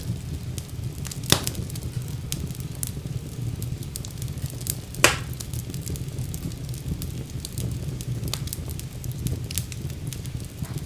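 Wood fire burning in a fireplace: a steady low rumble under constant small crackles, with two louder pops, one about a second in and a sharper one about five seconds in.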